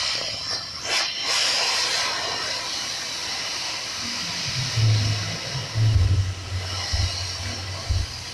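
Steam hissing hard and steadily from a homemade boiler, venting under strong pressure, with intermittent low rumbles in the second half.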